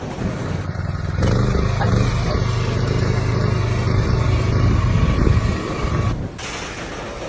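A motor vehicle running, a steady low rumble with noise over it. It jumps abruptly louder about a second in and drops back just after six seconds.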